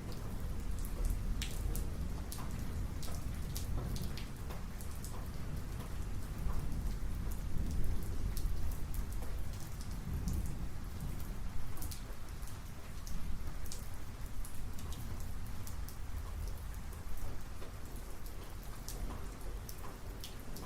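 Steady rain in a thunderstorm, with many individual drops ticking sharply on a nearby surface over a low, continuous rumble.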